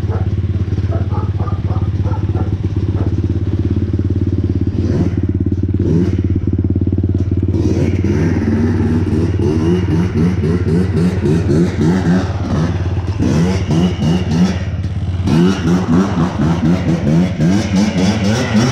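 Yamaha Blaster quad's single-cylinder two-stroke engine idling steadily, then blipped repeatedly in quick revs from about eight seconds in, with a brief dip before more revving near the end.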